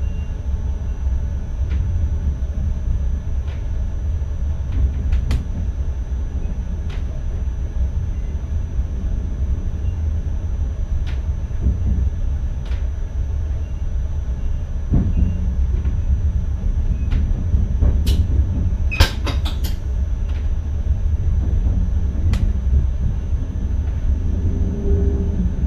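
Inside the cab of an NS ICM electric multiple unit running along the line: a steady low rumble of the wheels on the rails, with scattered sharp clicks and a brief rattle of clicks about three-quarters of the way through.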